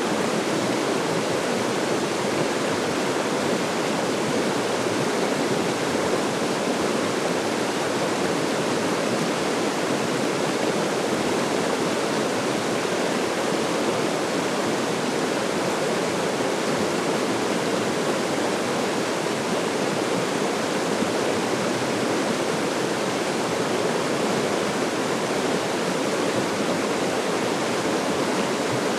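Small forest river rushing steadily over rapids and riffles.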